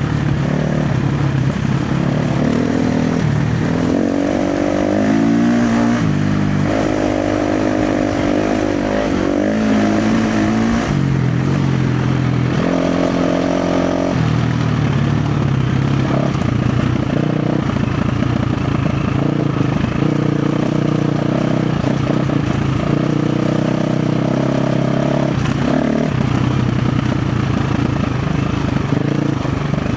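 KTM 350 XC-F dirt bike's single-cylinder four-stroke engine under load, the revs rising and falling with the throttle over the first half, then running at a steadier, lower pitch.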